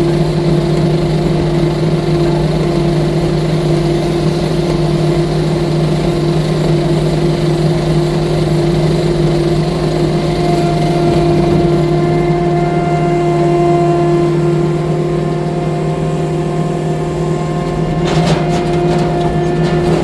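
A tracked skid steer loader's engine running steadily at constant speed. A faint higher whine joins about halfway through, and there is a brief clatter near the end.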